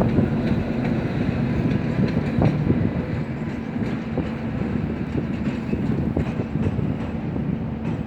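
Train running past on the rails: a steady rumble with wheels clacking over rail joints and a faint steady hum, easing slightly toward the end.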